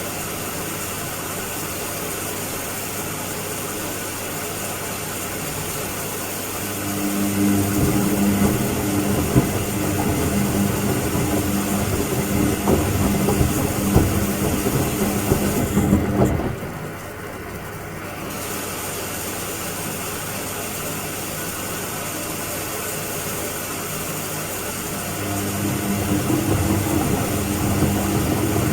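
Washing machine running in its cycle: a louder motor hum with a steady tone runs for about ten seconds, drops away abruptly, then continues as a quieter steady whir before the louder hum builds again near the end.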